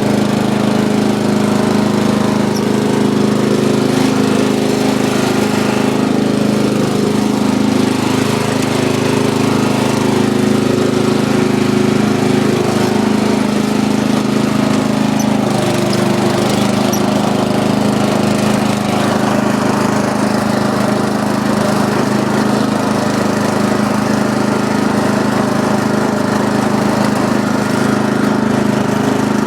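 Small walk-behind lawn mower engine running steadily at a constant speed, with no revving.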